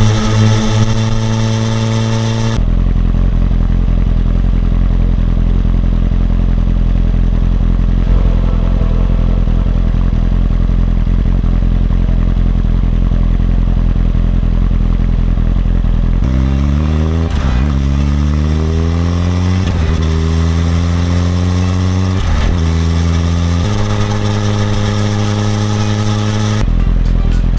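Suzuki GSX-R1000R's inline-four engine out on the road, for a long stretch a steady drone under a dull low rumble. About sixteen seconds in it accelerates up through the gears, its pitch climbing in each gear and dipping at three quick upshifts, then holds a steady cruise. The dull rumble returns near the end.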